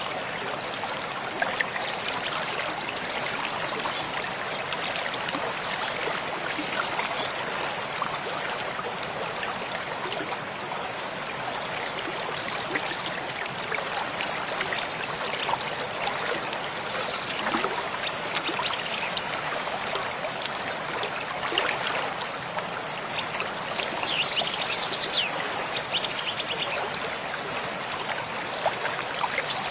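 Mountain stream flowing steadily with an even rushing and trickling of water. About 24 s in, a small bird gives a brief rapid trill of high notes, and another trill starts at the very end.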